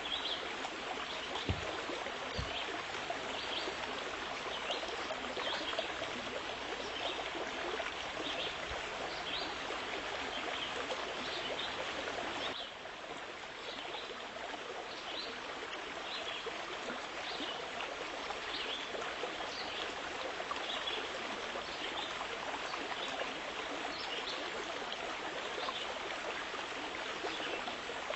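Running water, a steady rushing with small bright splashes scattered through it; the level drops slightly about twelve seconds in.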